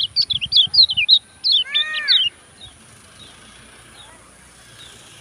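A songbird singing a fast run of sharp, high chirps and whistled notes, with one lower, arched note near the end of the run. The song stops a little over two seconds in, leaving only faint, scattered chirps.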